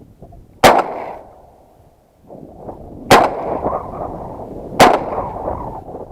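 Three shotgun shots from a semi-automatic Stoeger 2000, the first about half a second in and the next two close together near the middle and later, each a sharp crack with a short tail, fired at ducks. Wind rushes on the microphone between the later shots.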